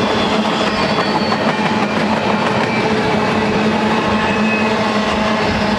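Empty double-stack intermodal well cars of a freight train rolling past, their wheels running steadily on the rails, with a steady low tone under the noise.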